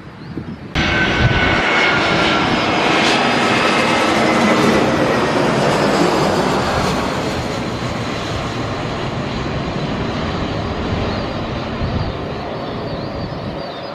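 A jet airliner passing close by, its engine noise starting suddenly loud with high whines that fall in pitch as it goes past, then slowly fading.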